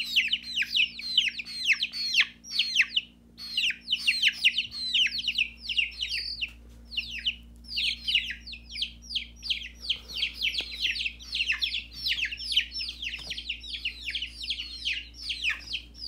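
Baby chicks peeping steadily: many short, high peeps that fall in pitch, several a second, with a couple of brief pauses.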